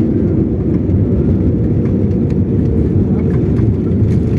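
Steady low rumble of an airliner heard from inside the cabin during landing, with a few faint clicks over it.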